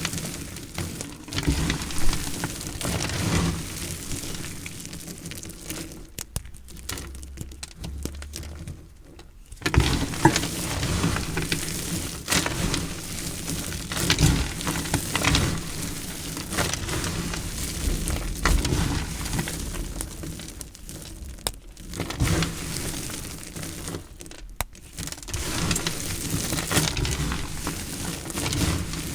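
A blade cutting through recycled soap: a dense run of crunchy crackles and sharp snaps, with a quieter pause about six seconds in.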